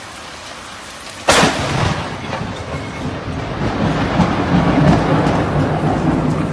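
Steady rain-like hiss, then a sudden loud thunderclap about a second in, followed by a long rolling rumble.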